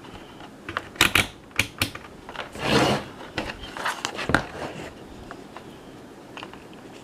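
A quick run of sharp plastic clicks and taps with a brief rubbing swell in the middle, from handling a camcorder battery and meter probes while its voltage is checked.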